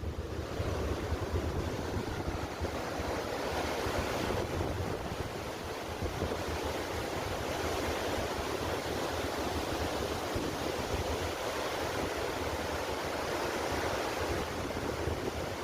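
Steady rushing of water, with wind rumbling on the microphone.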